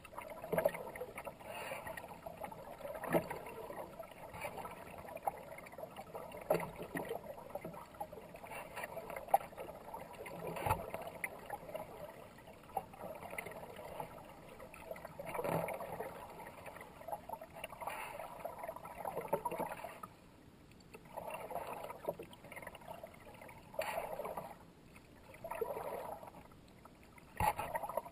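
Kayak paddle dipping and splashing into fast-moving river water, in strokes a few seconds apart over a steady wash of water.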